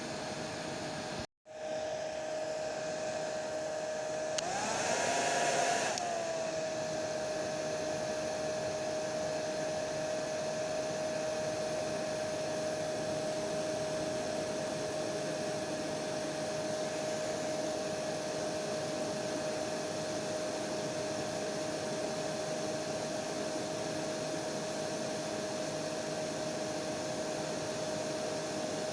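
Hair dryer blowing steadily, a rushing airflow with a steady whine. It cuts out for an instant about a second in, and between about four and six seconds it runs louder with a higher whine before settling back to its steady note.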